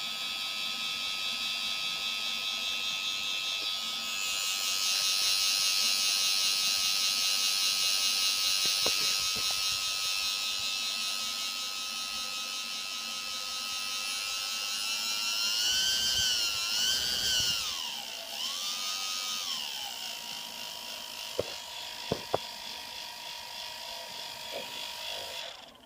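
Quadcopter motor spinning with a high, buzzing whine, which the owner suspects comes from bad bearings. It gets louder a few seconds in, its pitch wavers up and down for a few seconds about two-thirds of the way through, a couple of sharp ticks follow, and it cuts off suddenly near the end.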